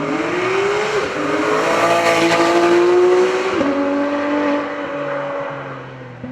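Porsche 911 GT3's flat-six engine accelerating hard through the gears. Its pitch climbs and drops suddenly at two upshifts, about a second in and again past three and a half seconds. It is loudest around the middle, then fades as the car pulls away.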